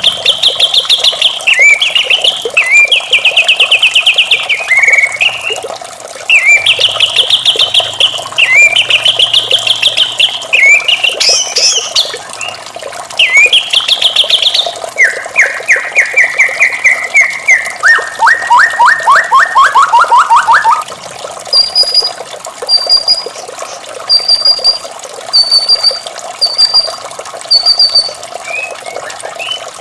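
White-rumped shama singing: loud, rapid trilled phrases that change from one to the next, dropping lower and sliding downward in the middle, then giving way to a string of short high notes about once a second.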